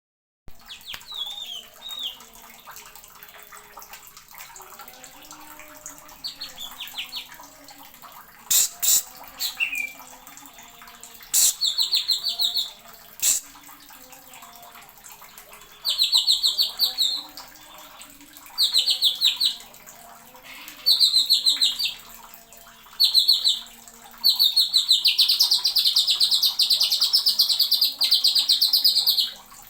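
Green leafbird (cucak ijo) singing in loud, fast trilled bursts, each phrase a second or two long with short pauses between, ending in one long unbroken run of about five seconds. A few sharp, very high single notes come in the middle.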